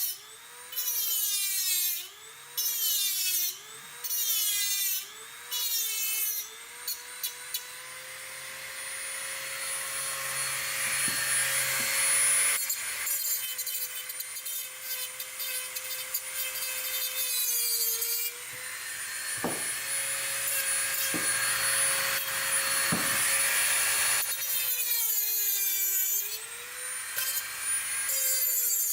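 Handheld power tool working the steel frame: a whining motor that is pressed into the work so its pitch sags and recovers over and over. It runs in short bursts at first, then for a long continuous stretch, then in short bursts again near the end.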